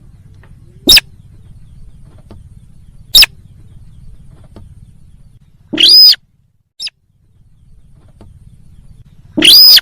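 Sintar bird lure call: short, sharp single calls about one and three seconds in, then two longer calls that rise and fall in pitch around the middle and near the end, all very loud, over a faint low hum.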